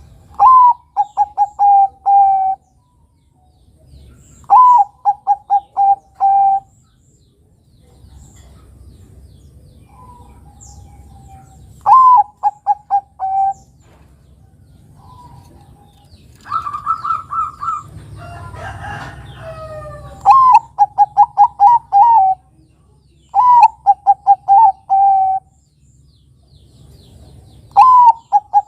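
Zebra dove (Bangkok-type perkutut) singing its cooing song: phrases of about two seconds, each a higher opening note followed by a quick string of short coos and a longer final coo, repeated six times with pauses between. Near the middle a different, rougher stretch of calls breaks the pattern.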